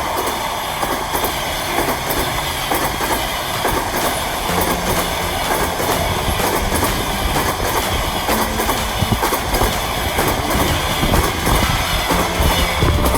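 A train running past on the rails, its wheels clacking steadily over the rail joints.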